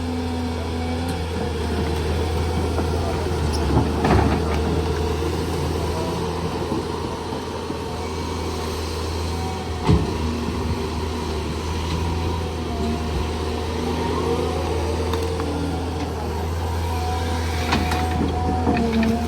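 A large vehicle engine running steadily at low revs, with a deep hum and a few sharp knocks: about four seconds in, a loud one about ten seconds in, and more near the end.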